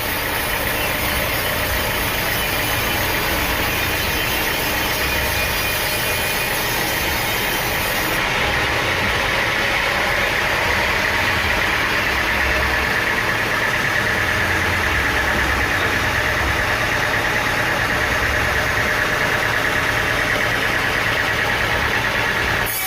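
Engine-driven sawmill machinery running steadily, with a steady higher whine that grows stronger through the middle.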